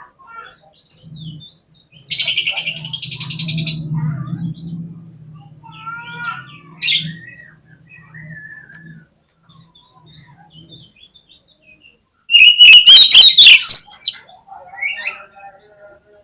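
Oriental magpie-robin (kacer) calling and singing in short phrases, with a harsh rasping call about two seconds in and a loud chattering burst near the end. A low steady hum runs under the first half.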